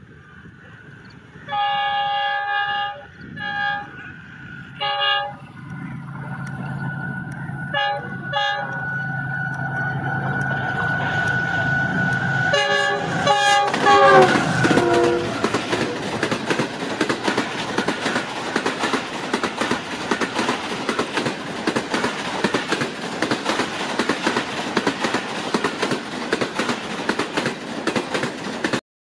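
A GE U40 diesel locomotive on a fast express sounds its multi-note horn in a series of blasts as it approaches, over a growing engine rumble. The horn's pitch drops as the locomotive passes at about 105 km/h, and then the coaches rush by with loud, continuous wheel clatter.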